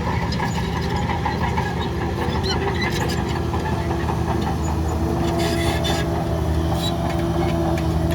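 Heavy diesel engine of earthmoving machinery running steadily, with a few short metallic knocks about three and five and a half seconds in.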